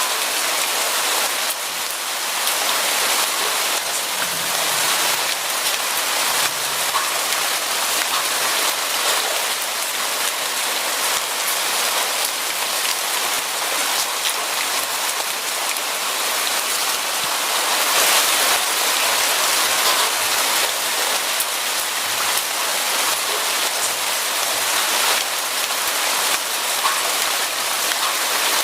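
Steady rain falling on a surface: an even hiss made of many individual drop patters.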